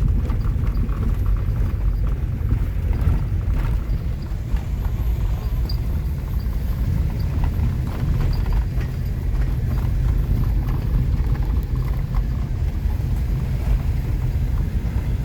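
Car tyres rolling over a gravel road: a steady low rumble with scattered small clicks of loose stones.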